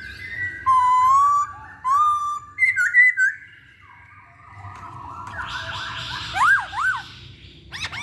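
Poksay Hongkong (black-throated laughingthrush) singing: a run of clear whistled notes and up-and-down slurs, a brief lull, then a harsher chattering passage with looping whistles near the end.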